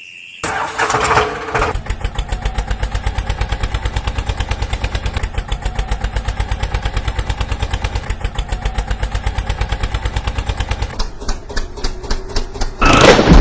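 A diesel engine starts up and settles into a steady chugging idle at about eight beats a second. The rhythm changes near the end, and a loud rushing noise cuts in just before the close.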